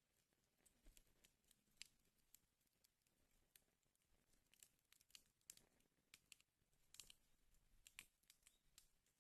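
Wood fire in a fireplace crackling faintly, with irregular sharp pops and snaps, a few louder snaps standing out near the end.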